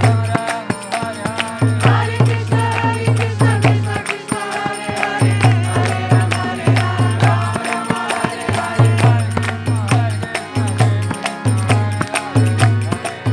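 Kirtan: voices singing a devotional mantra over a steady beat of percussion.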